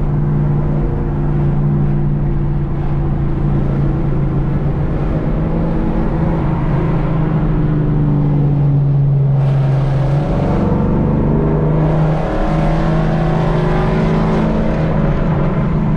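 Chevrolet Camaro SS V8 engine heard from inside the cabin, running steadily under way at highway speed. Its pitch eases down slightly, shifts briefly about ten seconds in, then climbs slowly again.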